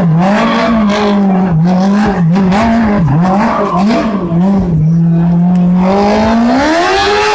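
Stunt vehicle's engine revving hard and unevenly, with tyre squeal, during a stunt run. The revs rise and fall repeatedly, then climb steeply near the end.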